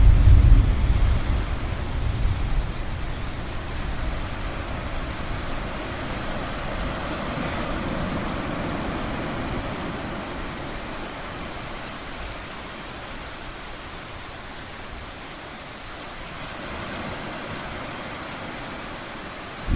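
Ocean waves washing in a steady hiss, one swelling to a peak about eight seconds in and then drawing back, with a low thunder rumble fading out over the first couple of seconds.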